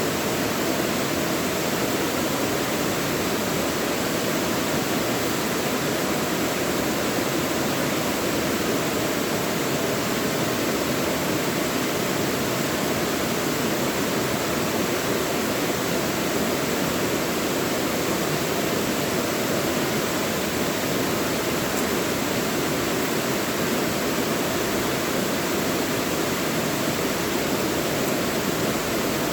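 Mountain stream rushing over rocks in a valley, a steady, even wash of water noise.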